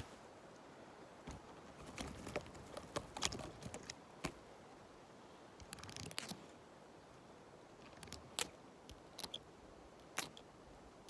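Close-miked rustling and crackling of dry leaves and a spruce branch: irregular dry snaps and clicks, bunched in short clusters, over a faint steady hiss.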